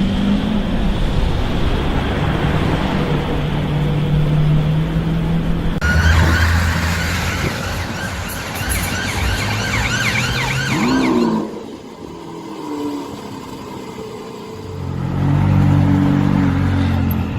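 Car engines running in street traffic, a steady engine hum at first. About six seconds in, a wavering emergency-vehicle siren joins it for several seconds, then another steady engine hum follows near the end.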